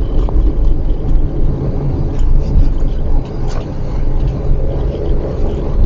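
Steady low rumble of a car being driven, engine and road noise with no break.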